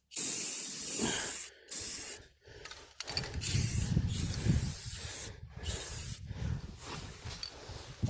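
Aerosol can of black spray paint hissing in on-off bursts with short breaks, then fainter spraying.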